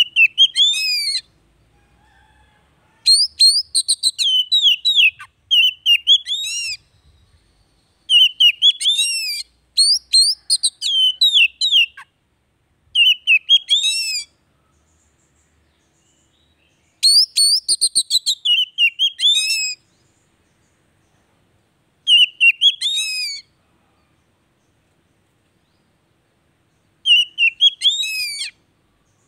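Oriental magpie-robin (kacer) singing: about nine short phrases of quick, sweeping whistled notes, each one to three seconds long, with silent pauses between them.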